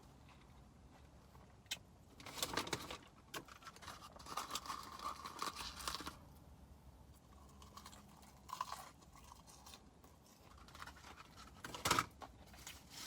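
A person chewing and eating fast food close to the microphone, with irregular bites, crunches and soft rustles; the sharpest crunch comes near the end.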